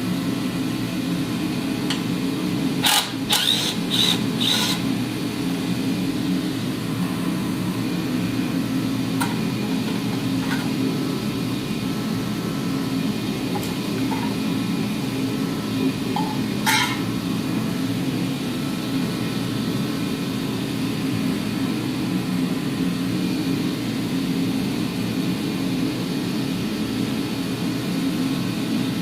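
A steady low drone, with a quick run of four sharp clinks about three seconds in and a single clink about halfway through.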